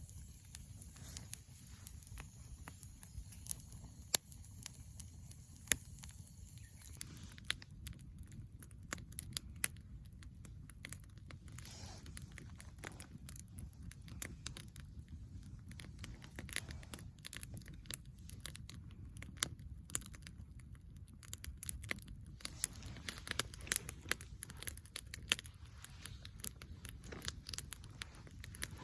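Wood fire crackling and popping in a fire pit, with irregular sharp snaps that come more often after about seven seconds, over a steady low rumble.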